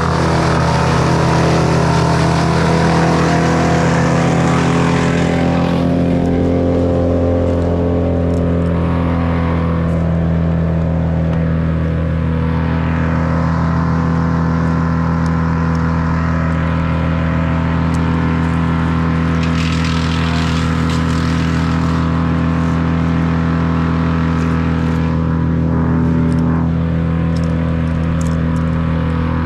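An engine running steadily at constant speed, with a brighter hissing edge that eases off about six seconds in.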